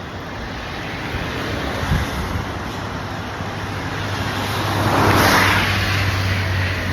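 Steady road and wind noise, with a car passing about five seconds in: a hiss that swells and then fades, from tyres on a wet road.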